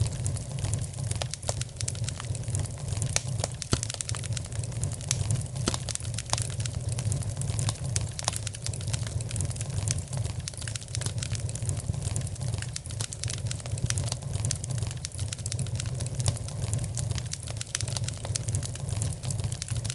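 Fire crackling in a fireplace: many small, irregular pops and snaps over a steady low rumble.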